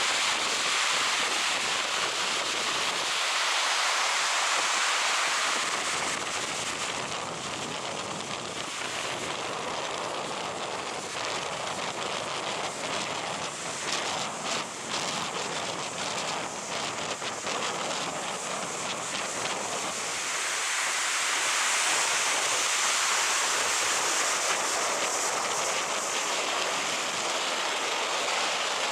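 Strong wind buffeting the microphone over the steady rush of storm surf on a sandy beach, with a stretch of crackly buffeting in the middle.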